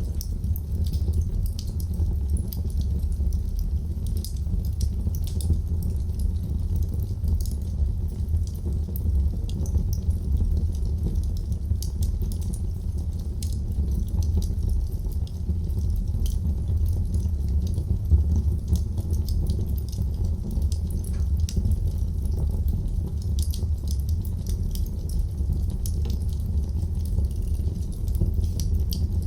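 Wood fire burning in a fireplace, crackling with frequent small, irregular pops over a steady low rumble of the flames.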